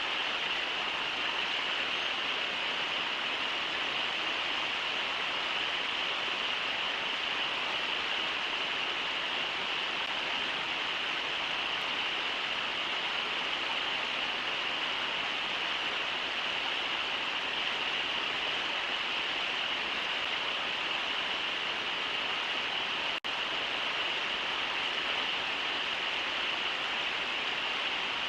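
Steady rushing of river water over shallow riffles, an even hiss strongest in the upper-middle range. It cuts out for an instant about 23 seconds in.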